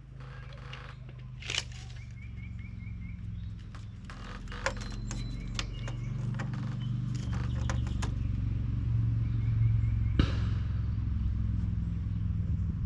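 Scattered sharp knocks from nailing wooden 1x4 purlins down onto roof rafters, the loudest about ten seconds in. Underneath runs a steady low hum that grows louder.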